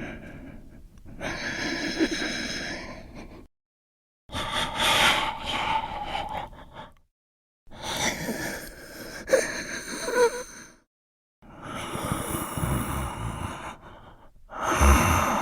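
A run of separate human breathing sound effects, breaths drawn in and pushed out through mouth and nose, each clip a few seconds long. The clips are cut apart by brief gaps of dead silence, about four full clips in a row.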